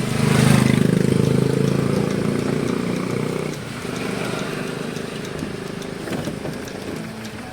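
Truck's diesel engine running, louder for the first three seconds or so and then easing off to a steadier, lower level.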